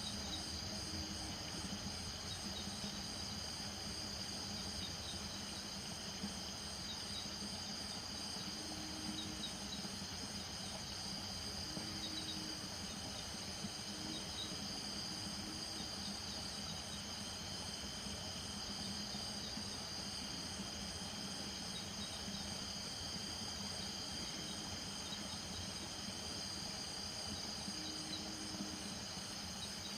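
Night chorus of crickets and other insects, a steady high-pitched trilling, with frogs giving short low calls now and then over a low, constant chorus.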